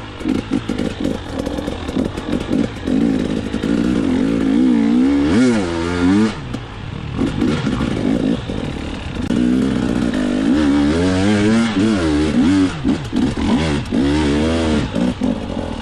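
Dirt bike engine being revved, its pitch climbing and dropping again and again, with a sharp rise and fall about five seconds in and several more swoops near the end.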